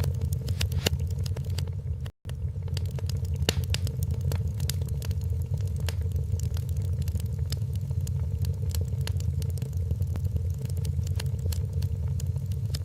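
Wood fire crackling, with frequent small pops and snaps over a steady low rumble. The sound drops out to silence for an instant about two seconds in.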